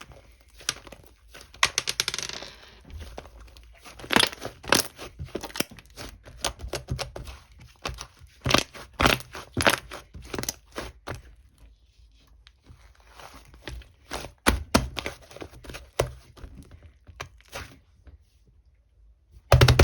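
Slime being worked by hand, giving irregular crackling clicks and pops with short sticky tearing sounds.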